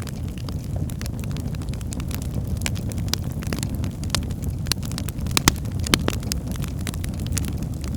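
Birch logs burning in a fireplace: a steady low rumble of flames with frequent sharp crackles and pops, two of them louder about five and a half and six seconds in.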